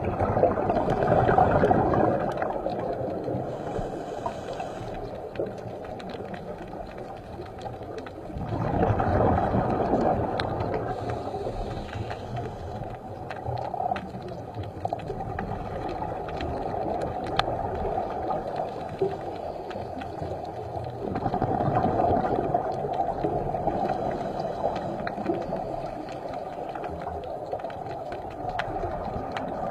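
Muffled rushing water noise that swells louder three times, with scattered faint clicks.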